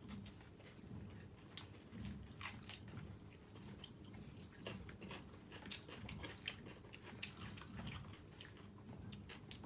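Two people chewing and eating chicken curry with pulao: soft wet mouth sounds with many small, sharp clicks and smacks.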